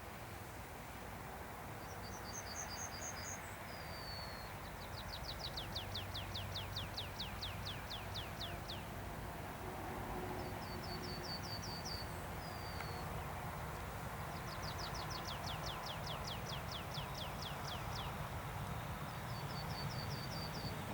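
A songbird singing the same phrase about three times: a few quick high paired notes, a short falling slur, then a long fast trill of falling notes. Steady outdoor background noise underneath.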